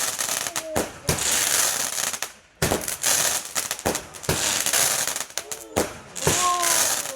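Garden fireworks going off: a run of sharp bangs, roughly one every half second to a second, over a steady hiss, with a brief lull near the middle.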